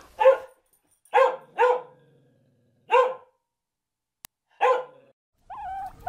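A dog barking five short single barks, two of them in quick succession. Near the end, a guinea pig's squeaky, wavering whistle call begins.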